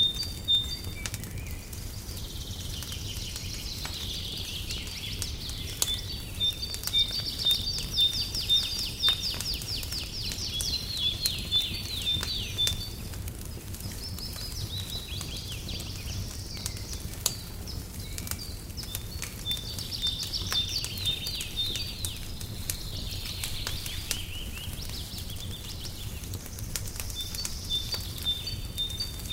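Wood fire crackling with scattered sharp pops, over a steady low rumble. Birdsong runs through it in repeated high trills and chirping phrases every few seconds.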